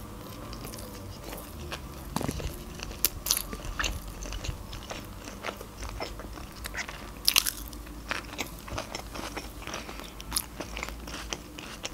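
Close-up sound of a person chewing sushi rolls: wet mouth sounds with many irregular sharp clicks, a few of them louder.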